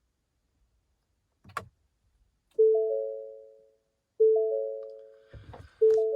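Ford F-250 dashboard warning chime in a truck that won't start: a three-note chime that rings and fades, sounding three times about a second and a half apart. A click comes before the first chime, and a low thump comes just before the third.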